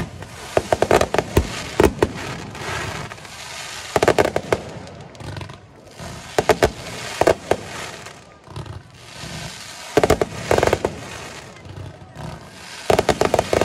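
Fireworks going off in volleys of sharp bangs: five quick strings of reports, about every three seconds, with the loudest cluster about a second in.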